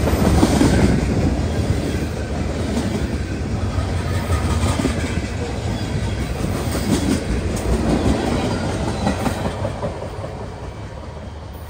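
Freight train cars rolling past close by, steel wheels clacking over the rail joints with a steady rumble. The sound dies away near the end.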